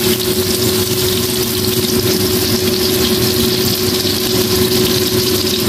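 Meat patties sizzling in hot oil in a nonstick wok, a steady frying hiss, with a constant hum running underneath.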